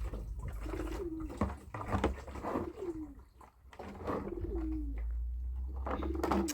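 A pigeon or dove cooing: a run of short coos, each falling in pitch, about once a second, over a steady low rumble.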